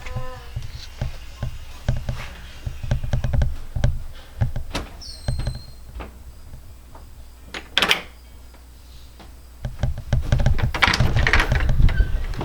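Knocking and thudding on a locked bedroom door, in many uneven knocks, with a short high squeak about five seconds in and a busier run of thuds near the end.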